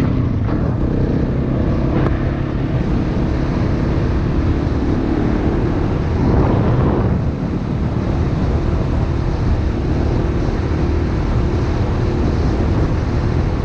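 Dirt bike engine running steadily while riding, with heavy wind noise buffeting the microphone.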